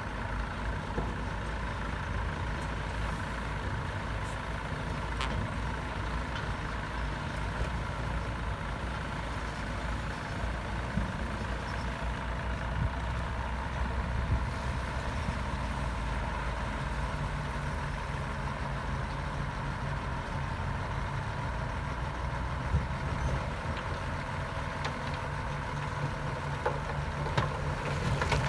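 Diesel engine of a Komatsu D68B crawler bulldozer running steadily under work, its low engine note shifting higher about halfway through.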